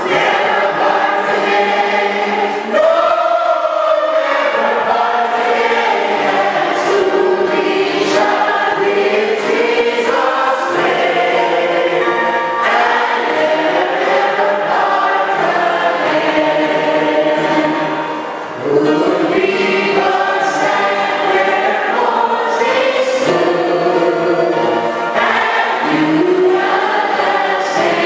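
A choir singing a hymn in long held phrases, with a brief pause for breath about two-thirds of the way through.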